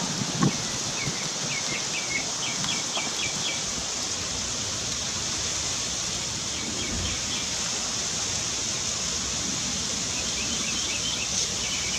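Outdoor ambience: a small bird chirping in quick repeated trills several times, over a steady high hiss.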